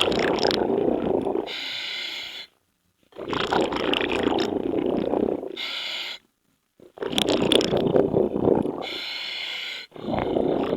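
Scuba diver breathing through a regulator underwater: each bubbly, gurgling exhalation is followed by a short hissing inhalation, then a brief pause. About three breath cycles, with another exhalation starting near the end.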